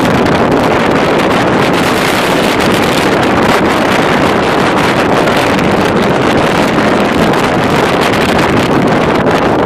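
Strong sandstorm wind buffeting the microphone: a loud, steady rushing roar.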